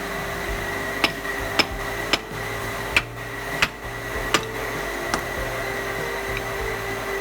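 A series of about seven sharp hammer taps on metal, irregularly spaced, over a steady workshop hum with a faint high whine.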